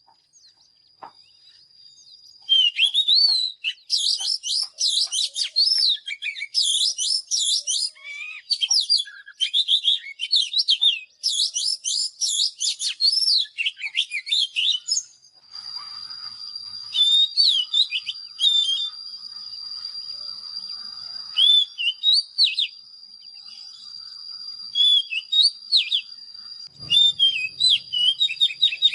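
Oriental magpie-robin singing: rapid, varied whistled phrases, almost unbroken for the first half, then in shorter groups over a steady thin high tone.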